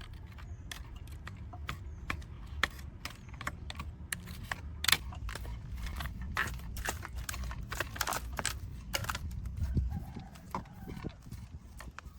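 Irregular small clicks and taps from hard parts of a die-cast model truck being handled and worked on, busiest in the middle, over a steady low hum that fades about ten seconds in.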